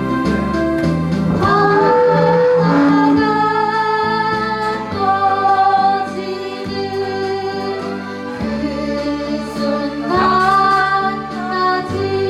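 A woman singing to live instrumental accompaniment, with sung phrases about one and a half seconds in and again about ten seconds in, over a steady backing.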